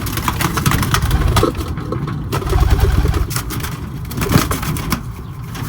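Homing pigeons flapping their wings in quick, irregular clattering bursts while being caught and handled, with a low rumble underneath.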